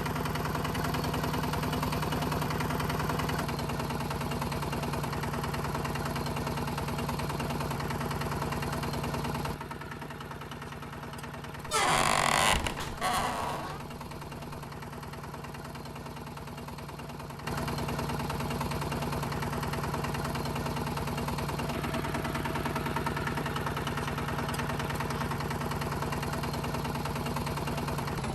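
Small motor of a DIY mini tractor running with a steady hum. About ten seconds in it drops out for several seconds, and during that gap there is a brief, louder, rough noise.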